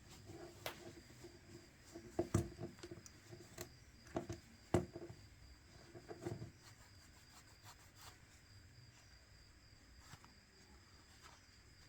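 Faint scattered taps, clicks and rubbing as a smartphone and small repair tools are handled on a work surface, mostly in the first six or seven seconds, then only a low background.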